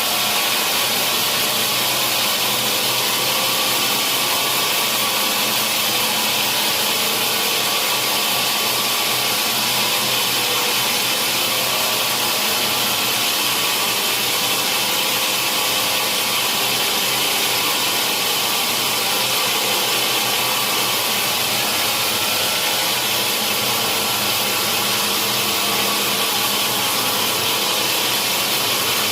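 Sawmill saw running steadily through a large hardwood log, a constant, unbroken high-pitched hiss and whine.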